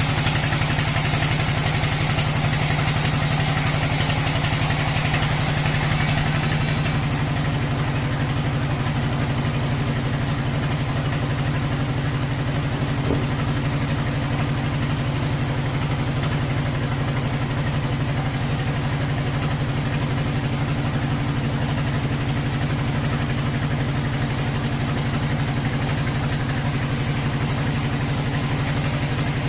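Sawmill machinery running with a steady, engine-like drone, with an added high hiss over roughly the first seven seconds and again from about 27 seconds in.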